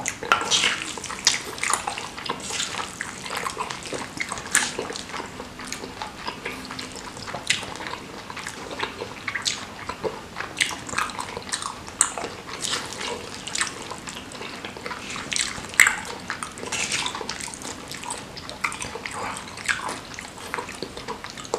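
Close-miked wet chewing and lip-smacking of seblak, soft boiled crackers in a chili sauce: a dense, irregular run of sharp wet clicks and smacks.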